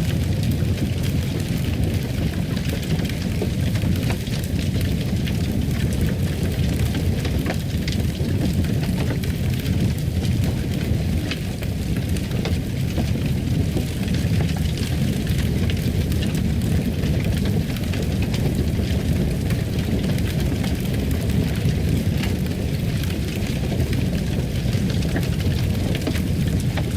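Fireplace fire burning steadily: a low, even rumble of the flames with a constant scatter of small crackles and pops from the wood.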